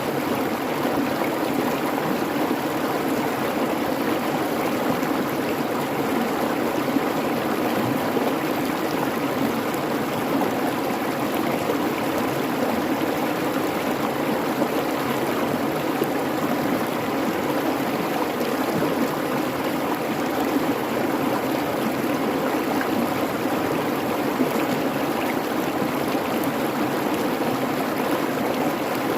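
Creek water babbling and rushing steadily over rocks, an even continuous flow.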